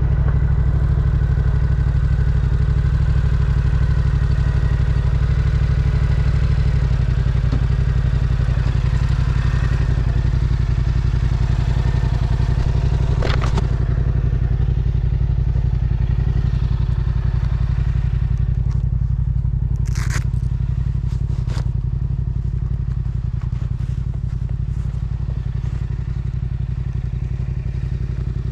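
Yamaha R7's parallel-twin engine running steadily under way, its low drone shifting in pitch about seven seconds in and easing off slightly toward the end. A few brief sharp clicks sound in the middle.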